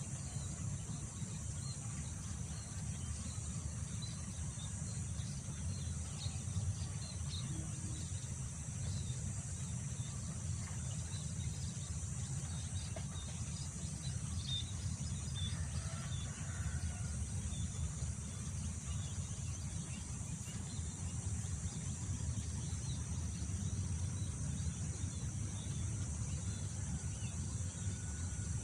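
Wind rumbling on the microphone over a steady, high-pitched insect chorus, with scattered faint bird chirps.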